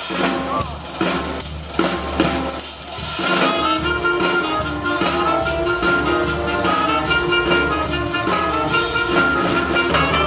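Live jazz band: a drum kit plays alone for about three seconds, then the horns come in with sustained notes over the drums.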